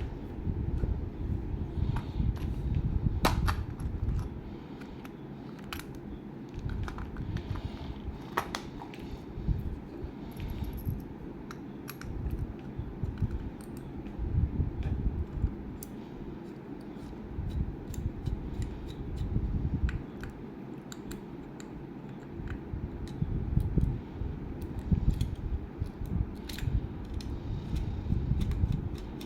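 Handling of a small die-cast model car and its plastic and cardboard packaging: scattered light clicks and taps over low rumbling bursts.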